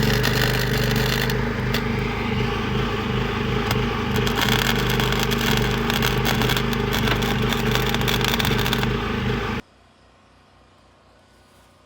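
Portable generator engine running steadily, with a crackling, scraping sound of metalwork on the car's floor over it. Everything cuts off abruptly near the end, leaving only a faint hum.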